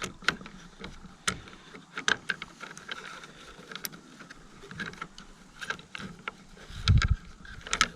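Scattered clicks, taps and light knocks of hands handling a plastic pipe anchor pole while threading the line up through a hole, with a low thump about seven seconds in.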